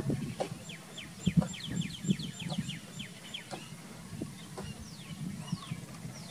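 Birds calling: a quick run of short downward chirps, about six a second, for the first three seconds or so, over repeated low short calls, then a few single downward calls spaced out near the end.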